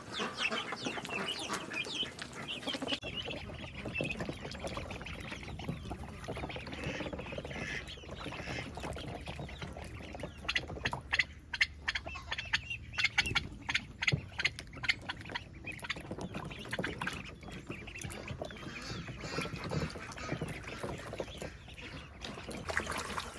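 Ducks quacking in a poultry pen, with chickens calling among them. A run of rapid, sharp calls comes about halfway through.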